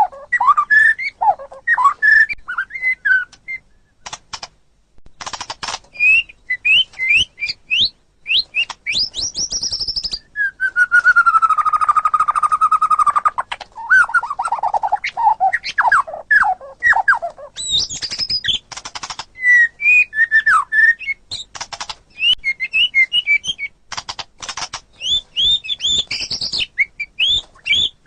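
White-rumped shama (murai batu) singing a varied, fast song: quick rising and falling whistled notes mixed with sharp clicks. About ten seconds in it holds one long steady whistle for a few seconds, then runs into a series of falling notes.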